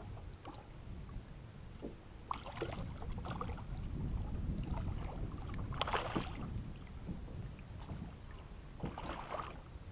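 Low wind rumble on the microphone, with three short splashes about two, six and nine seconds in: a hooked bass thrashing at the water's surface beside the kayak.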